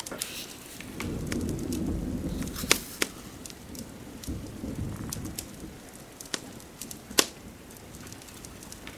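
Fireplace crackling, with scattered sharp pops from the burning wood, the loudest about a third of the way in and near the end, over a steady hiss of rain. Two soft low rumbles swell and fade, one early and one midway.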